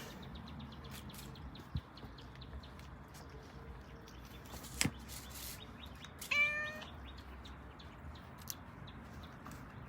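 A cat gives one short meow about six seconds in. Two sharp knocks come earlier, with faint light ticking throughout.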